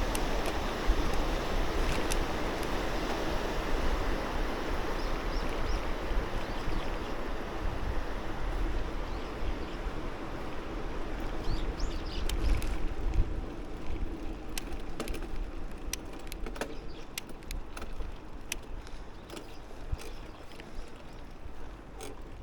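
Wind and road noise from riding a bicycle, a steady rush over the microphone that eases about two-thirds of the way through. Scattered light clicks and ticks follow near the end.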